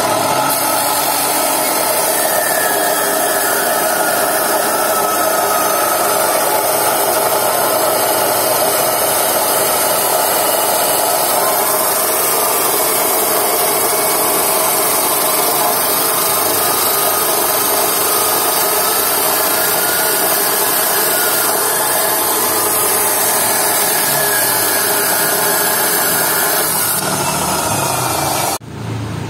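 A power tool cutting into the steel shell of a split air-conditioner's hermetic compressor, a steady unbroken grinding noise that stops abruptly near the end.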